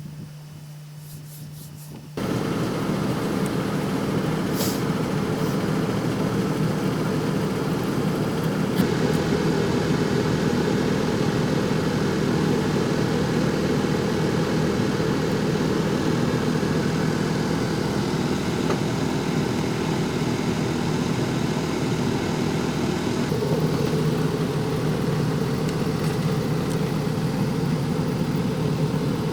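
Vehicle engine running steadily, setting in abruptly about two seconds in after a quiet hum.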